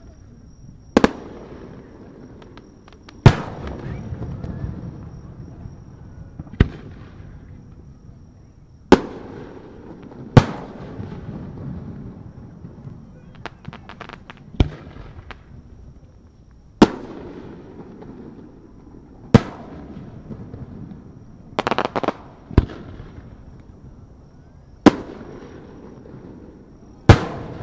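Aerial firework shells bursting one by one, about a dozen sharp bangs a few seconds apart, each followed by a rolling echo. Brief crackling spells come about halfway through and again later.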